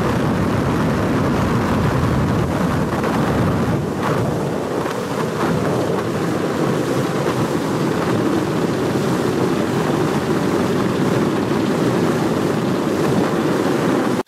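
Steady rushing noise of wind on the microphone aboard a moving boat, with the boat's engine and water noise mixed in.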